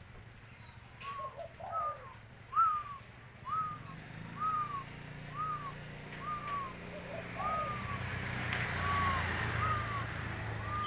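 Spotted dove calling: a steady run of about a dozen short, arched notes, about one a second. A low hum joins in underneath from about four seconds in.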